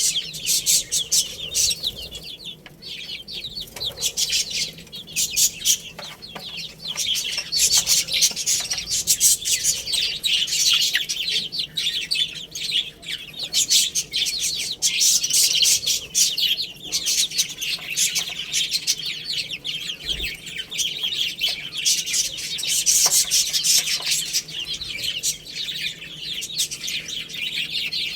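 A flock of baby chicks peeping continuously, a dense chorus of overlapping high, short chirps.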